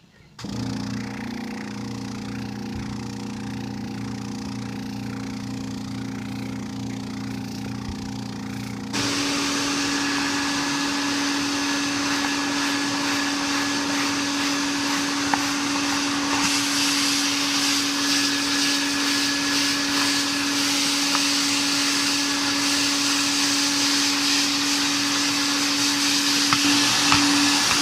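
Mytee Lite II 8070 hot water carpet extractor running: a steady hum starts right away, then about nine seconds in its louder vacuum motor comes on with a steady whine and hiss and runs on.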